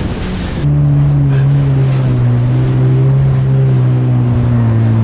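Jet ski engine running at a steady pitch, a loud even hum. In the first moment wind rushes over the microphone, then it cuts suddenly to the engine.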